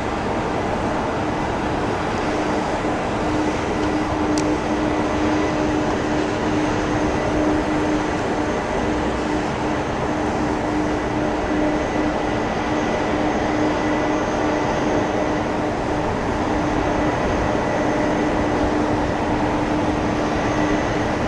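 Boeing 767-300ER's jet engines running steadily after landing, an even rushing noise with a constant low hum and a faint high whine.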